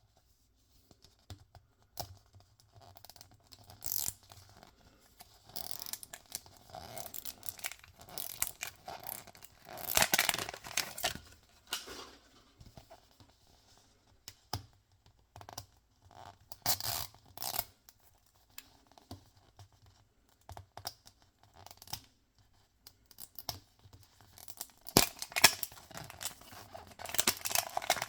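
Toy packaging being torn open and crinkled by hand, in irregular bursts of rustling and tearing with small clicks and taps, loudest about ten seconds in and again near the end.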